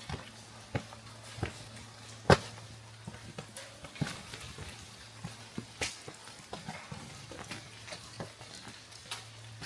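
Irregular sharp taps and clicks, the loudest about two seconds in, over a steady low hum.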